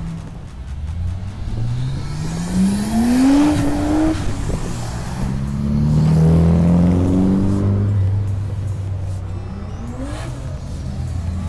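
Car engine revving as it accelerates, its pitch rising about two seconds in and rising again around the middle.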